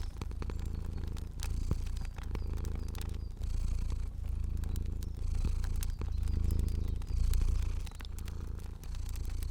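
A cat purring in a low rumble that swells and fades about once a second with each breath, mixed with the scattered sharp pops and crackles of a fire.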